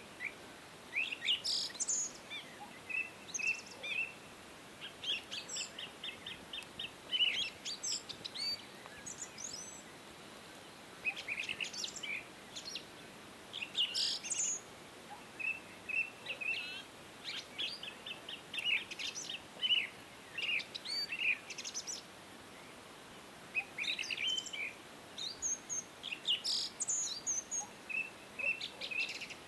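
Small birds chirping and singing, with quick trills of rapid repeated notes and higher sharp chirps coming in clusters, broken by two short lulls, over a faint steady hiss.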